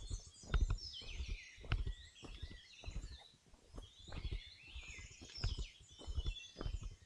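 Footsteps walking on a forest trail, a low thud every half second or so, while several birds chirp and sing in the background.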